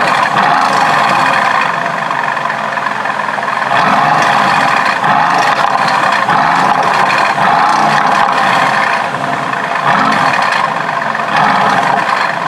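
Mercedes-AMG GT S twin-turbo V8 running in race mode with the sports exhaust open, loud and steady, with its level surging and easing several times as the engine is revved.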